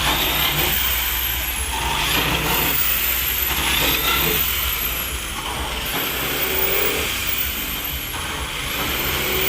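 Busy street traffic noise, vehicles running steadily over a constant low hum, with passing patches of hiss.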